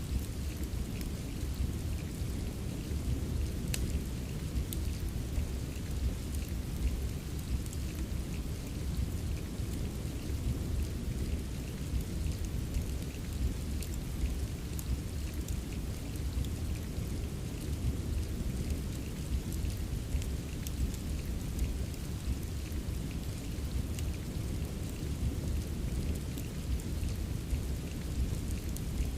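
Steady rain ambience with a deep low rumble, mixed with scattered sharp crackles of a wood fire in a fireplace.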